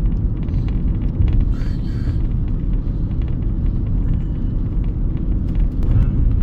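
Car cabin road noise while driving: a steady low rumble of engine and tyres heard from inside the car, with a brief hiss about one and a half seconds in.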